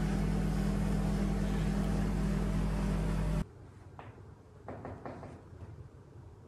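A steady machine-like hum with low droning tones that cuts off abruptly about three and a half seconds in, leaving a quiet room with a few faint knocks.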